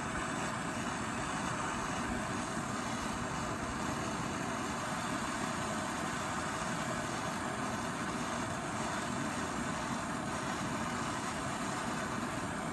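Handheld gas torch flame hissing steadily as it heats a seized strut bolt nut to free it.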